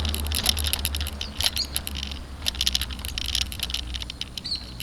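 Rapid, irregular rattling and clicking from a bicycle-mounted camera and its mount shaking as the bike rolls over rough cement sidewalk, with a steady low wind rumble on the microphone.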